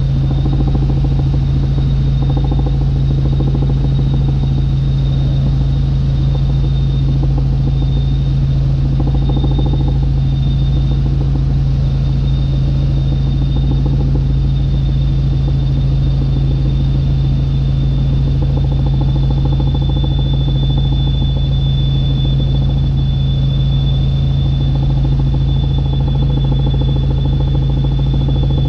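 Helicopter in flight: a steady, loud drone of engine and rotors with a thin, constant high-pitched whine over it, the whine a little stronger in the second half.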